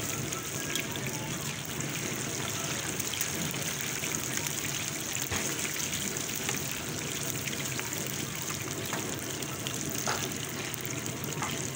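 Chicken chapli kabab deep-frying in a wide pan of hot oil: a steady bubbling sizzle. A few metal clicks come from the slotted spoons against the pan.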